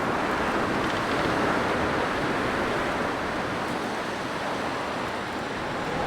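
Blizzard wind blowing as a steady rush of noise, swelling a little and then easing slightly.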